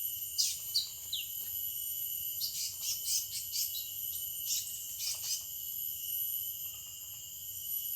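Small birds chirping in short calls, some sliding down in pitch, in bursts about two and a half and four and a half seconds in, over a steady high insect drone.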